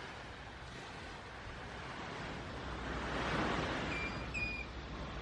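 Surf washing onto a sandy beach, a steady hiss that swells about three seconds in as a wave breaks. Near the end come two brief high chirps.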